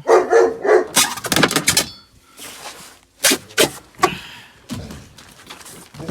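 Knocks, thuds and clatter of objects being handled in a car's boot, in a string of sharp irregular hits, with a softer rustle between about two and three seconds in.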